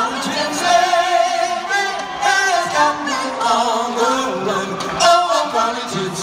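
Live blues-rock band playing, with a lead melody line that bends and wavers in pitch over the band.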